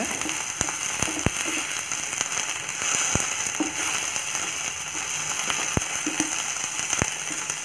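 Sliced ivy gourd, onion and dried red chillies sizzling in oil in a stainless steel kadai while being sautéed with a wooden spatula, which knocks sharply against the pan a few times.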